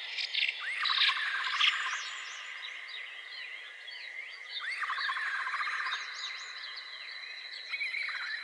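Several wild birds chirping and calling together, with two trilling calls of about a second each, one about half a second in and one about five seconds in, over a steady high-pitched tone.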